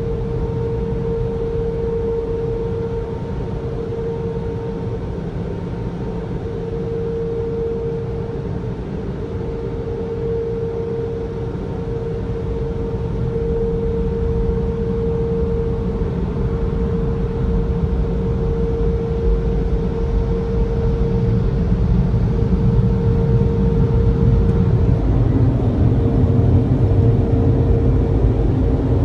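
Automatic car wash dryer blowers running, heard from inside the car: a steady whine over a heavy rumble of rushing air, which grows louder about three quarters of the way through.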